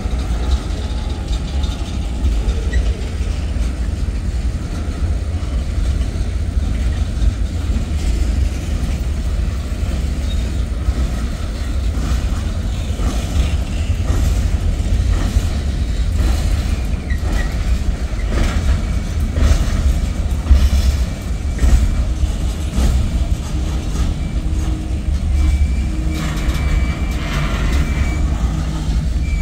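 Freight cars of a mixed manifest train (tank cars, covered hoppers, boxcars) rolling past at close range: a steady low rumble with repeated wheel clicks and knocks, and a thin high squeal near the end.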